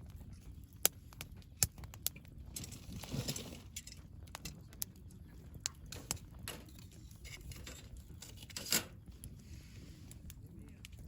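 Wood campfire burning and crackling, with scattered sharp pops, a short hiss about three seconds in, and one louder pop about three-quarters of the way through.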